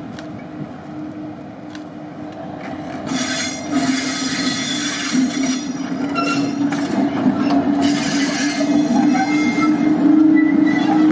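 Diesel locomotive and its train running past, with a steady engine drone. About three seconds in it gets louder as wheel-on-rail noise and thin, high-pitched wheel squeal join in.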